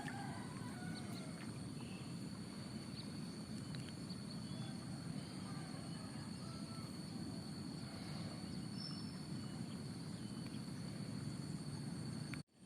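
Rice-field ambience: a steady high insect drone over a low rumble of wind, with scattered faint bird chirps. The sound cuts out briefly near the end.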